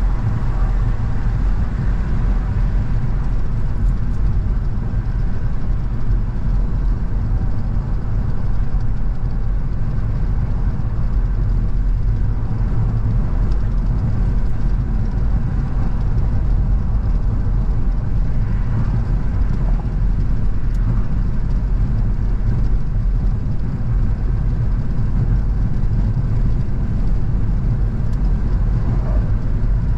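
A car driving along at a steady pace: its engine and tyre and road noise make a level low rumble that holds unchanged throughout.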